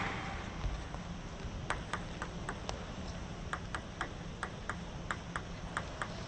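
Table tennis ball bouncing repeatedly, a string of light, sharp ticks that starts a couple of seconds in and goes on at about three or four a second.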